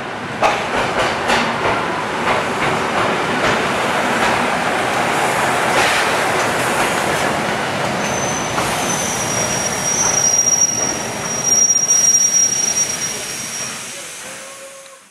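Passenger train hauled by an Ol49 steam locomotive rolling past along the platform, its wheels clacking over rail joints. A steady high-pitched wheel squeal comes in about halfway and holds for several seconds, and the sound fades near the end.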